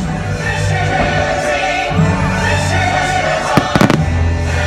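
Fireworks show soundtrack music playing loudly, with a quick cluster of sharp firework bangs about three and a half seconds in.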